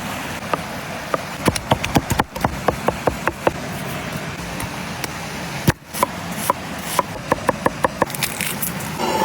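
Steady hiss with many sharp crackles and pops, as of a steak cooking over an open wood fire.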